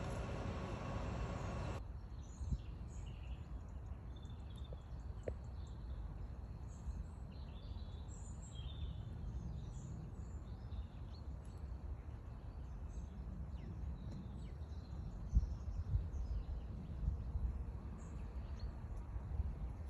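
Small birds chirping and twittering in many short, scattered calls over a low outdoor rumble, with a few low thumps near the end. It opens with a steady rushing noise with a faint hum, which cuts off sharply about two seconds in.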